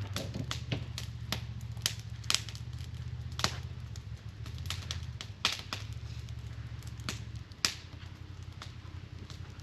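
Wood campfire crackling, with sharp irregular pops a few times a second over a low steady hum that drops away about seven and a half seconds in.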